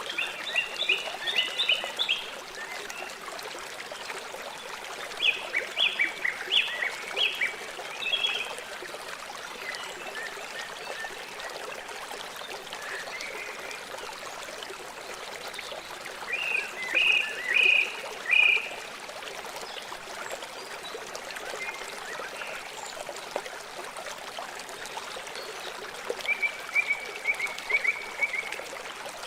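River water flowing steadily, with four bursts of rapid, repeated high-pitched animal calls spread through it.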